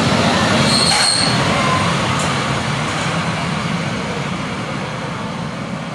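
Historic passenger train's coaches rolling out of the station, the wheels running steadily on the rails and the sound slowly fading as the train pulls away, with a brief high squeal about a second in.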